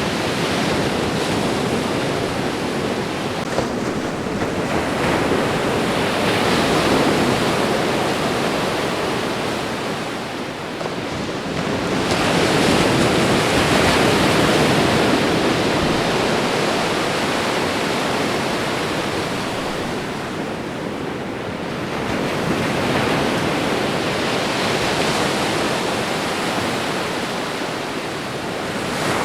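Ocean waves washing onto a shore, a steady rushing surf that swells and ebbs as waves come in, with the biggest swells about a third and a half of the way through.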